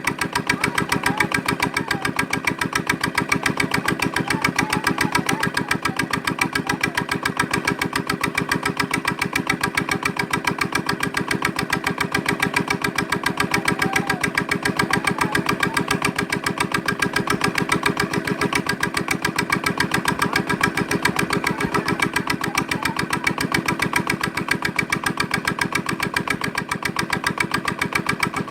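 Victor diesel engine running steadily under governor, driving a Keystone electric generator, with an even, regular firing beat.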